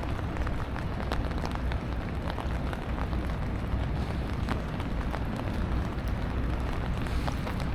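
Steady rain falling, with many scattered sharp ticks of raindrops striking close by, over a constant low rumble.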